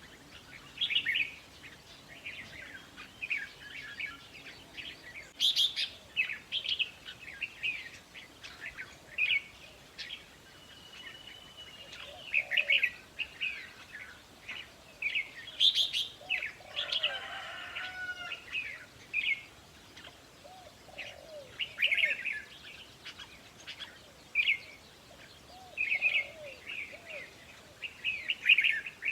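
Red-whiskered bulbuls singing and calling: short, bright, warbling whistled phrases repeated irregularly, one after another.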